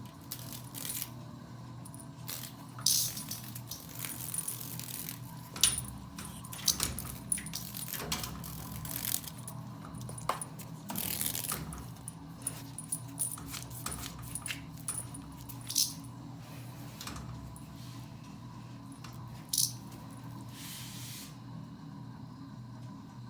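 Irregular clicks, taps and light metallic jingles from a dog and a cat scrabbling after a cicada, with a few short hissing bursts, over a steady low hum.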